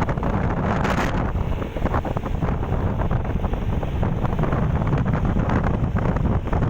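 Steady, loud wind buffeting the microphone on a moving motorcycle, mixed with the bike's road noise.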